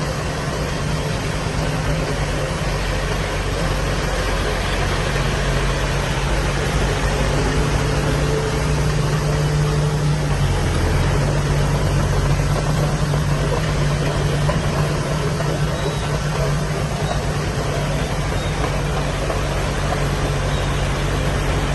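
Heavy diesel earthmoving machinery running steadily, its low engine hum strengthening slightly about five seconds in.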